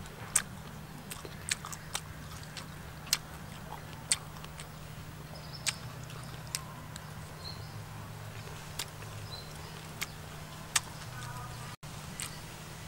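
A person eating a banana flower and pork salad: chewing, with sharp irregular clicks and smacks every second or so over a steady low hum.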